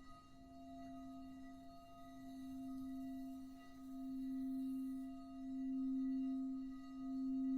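Singing bowl sounding one sustained low tone with fainter higher overtones, swelling and fading about every one and a half seconds and growing steadily louder.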